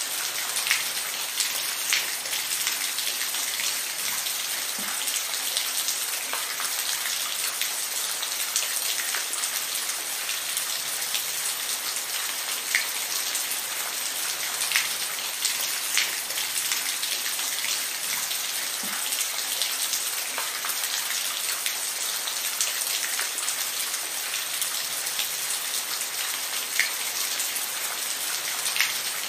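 Steady rain falling, an even hiss with scattered close drops ticking on a surface. There is no thunder.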